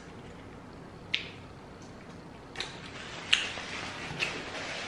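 Close-miked eating sounds: a person chewing fried chicken nuggets, heard as a few soft wet mouth clicks and smacks, the loudest about three and a half seconds in.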